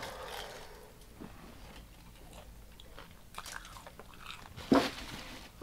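Biting and chewing on Hot Cheetos–crusted deep-fried king crab: soft, scattered crunches, with one louder sharp sound near the end.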